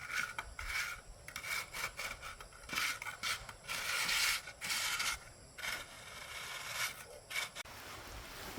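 A hand tool scraping and rubbing over concrete in a run of irregular strokes, one of them longer near the middle, each with a faint grating ring.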